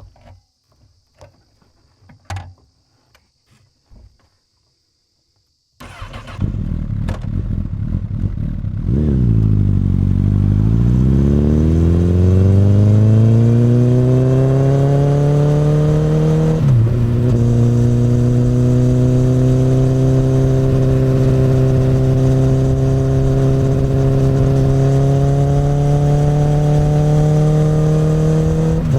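Honda CBR1000RR inline-four through an Akrapovic exhaust, heard from the rider's position. After a few faint clicks the engine comes in suddenly about six seconds in, and its pitch climbs steadily as the bike pulls away. An upshift drops the pitch sharply about two-thirds of the way through, then it runs at a nearly steady, slowly rising pitch with another shift at the very end.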